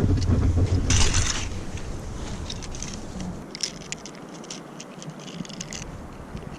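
Wind buffeting the microphone, strongest in the first second and a half, then easing, with scattered small clicks and scrapes.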